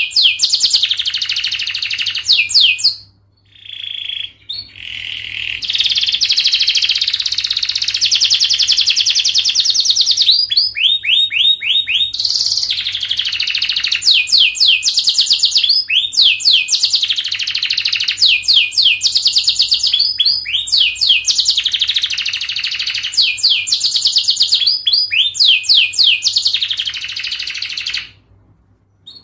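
Domestic canary singing a long, fast song of rapid trills and repeated rising sweeps, with a short break about three seconds in and another near the end.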